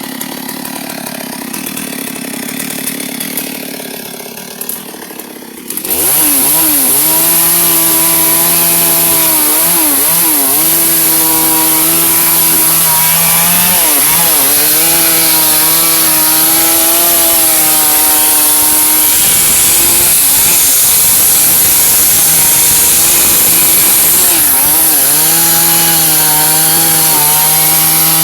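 Two-stroke chainsaw cutting white albizia wood. It is quieter for about the first six seconds, then comes in loud at high revs. The pitch sags briefly several times as the chain loads in the cut, then climbs back.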